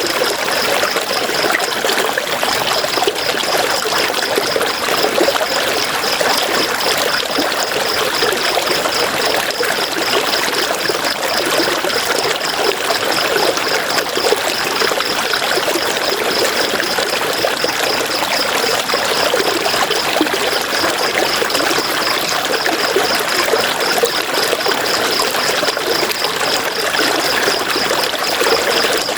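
River water flowing steadily over stones, a dense, even rushing and trickling. A faint, fast, evenly pulsing high note runs over it.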